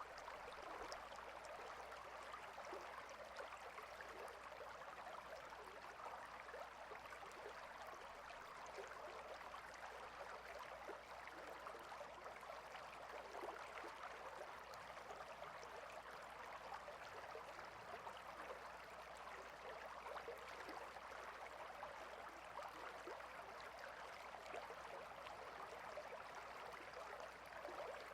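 A small stream flowing, a faint, steady babble of running water with many small splashes and gurgles.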